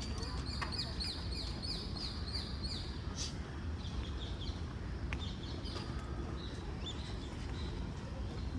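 Wild birds calling: one bird gives a fast run of repeated high chirps, about four or five a second, for the first three seconds, followed by scattered shorter chirps. A steady low rumble runs underneath.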